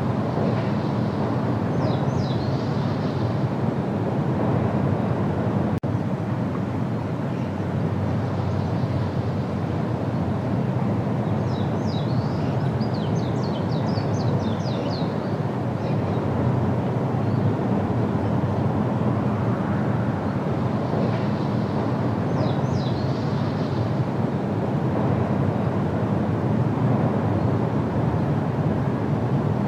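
Steady low rumbling outdoor noise with a faint hum in it. Over it, a bird gives short high calls three times: a few notes near the start, a quick run of notes in the middle, and a few more later.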